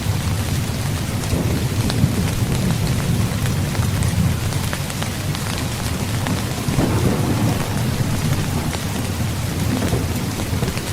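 Heavy rain falling steadily with low rolling thunder rumbling beneath it.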